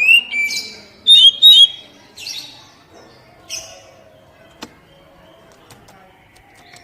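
Oriental magpie-robin (kacer) calling: a burst of loud whistled notes that slide up and down in the first two and a half seconds, then a few fainter notes, and a single sharp click about halfway through.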